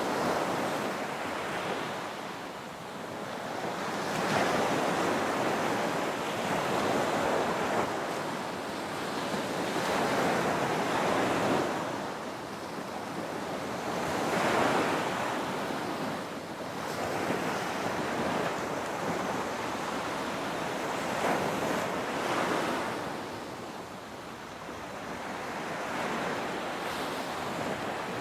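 Ocean waves breaking and washing onto a beach, the surf swelling and easing every few seconds, with some wind noise on the microphone.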